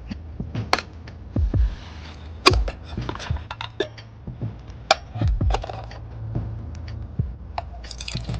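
Camping gear being handled: a run of light metallic clinks and knocks at irregular intervals, with dull low thuds between them.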